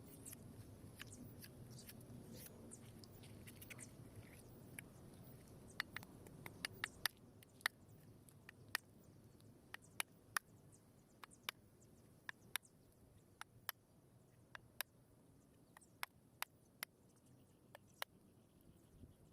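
Faint fire crackling: sharp, irregular pops and snaps, a few at first and then more often about six seconds in, over a faint low rumble that dies away shortly after.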